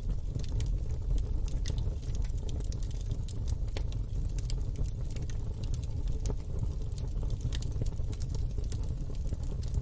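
Wood fire in a fire pit crackling: many small, irregular pops and snaps over a steady low rumble.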